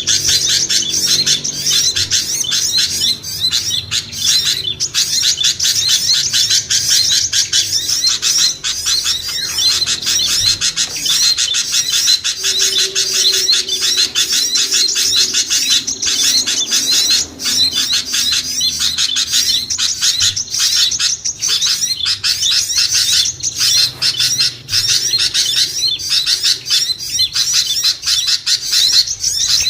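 Loud, busy mix of many small songbirds chirping and twittering rapidly over one another, high-pitched and without a pause. It is a lure recording made to draw small birds down to be caught.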